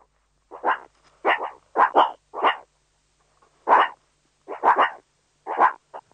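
Short barking calls from a primate, about ten of them in uneven groups, some in quick pairs.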